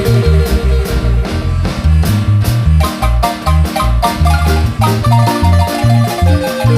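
Marimba band playing: quick marimba melody notes over a deep bass line and a steady percussion beat.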